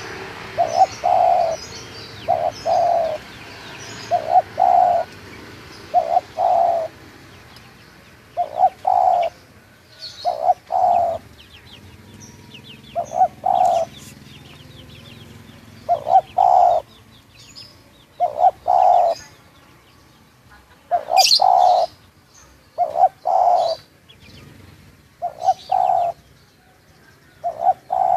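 Spotted dove (tekukur) cooing over and over, short phrases of two or three low notes about every two seconds. Faint high chirps of small birds come and go in between.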